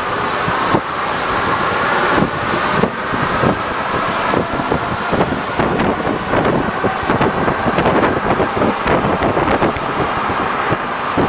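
Alstom NS-74 rubber-tyred metro train running: steady rolling noise with a faint whine and many rapid clicks and rattles, which come thicker from about four seconds in.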